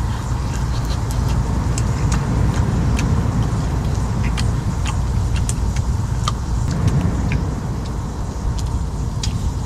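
Birch firewood burning in a wood stove, crackling with scattered sharp pops over a steady low rumble.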